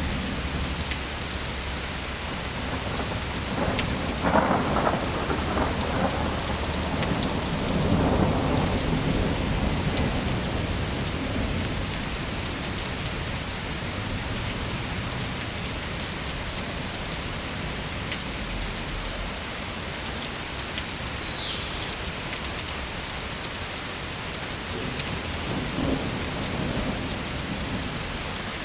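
Steady rain hiss with a roll of thunder rumbling from about four to ten seconds in, and a fainter rumble near the end.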